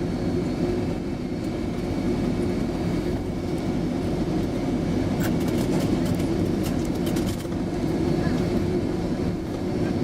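Steady low rumble of a Boeing 767-300ER heard from inside the cabin as it rolls on the ground after landing, with a patch of small clicks and rattles about halfway through.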